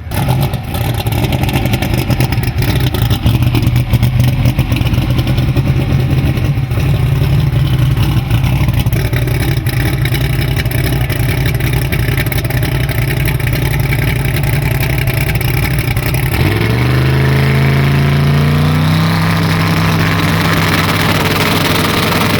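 Twin-turbo Chevy S10 drag truck's engine running loud and rough at low revs. About two-thirds of the way through, it revs up in a few steps and then holds a higher, steadier note.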